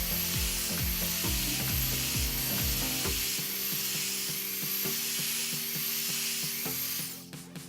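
Belt sander running against the oak door's edge, taking a couple of millimetres off a corner that causes springing: a steady hiss with a high whine that swells and eases about once a second, cutting off about seven seconds in. Background music plays underneath.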